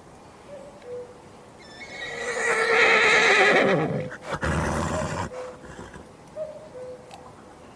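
Horse whinnying: one long wavering neigh that drops in pitch at the end, followed about half a second later by a short noisy blow.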